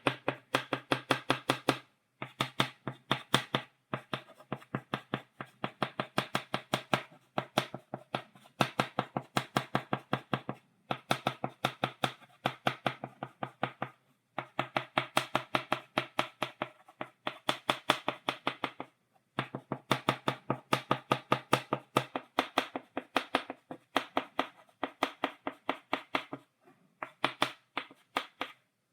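Chalk tapped against a blackboard, making stippled dots in quick runs of sharp taps, several a second, with short pauses between the runs.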